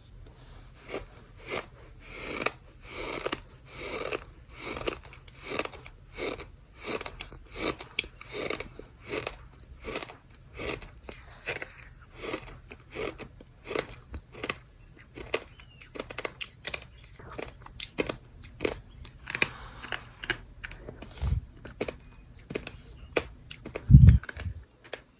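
Dry, compressed sand crunching close to the microphone in a steady rhythm of about two crunches a second. Near the end comes a single low thump, the loudest sound.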